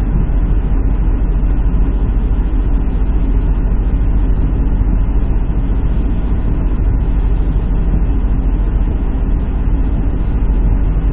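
Semi truck's diesel engine running steadily, a constant deep rumble.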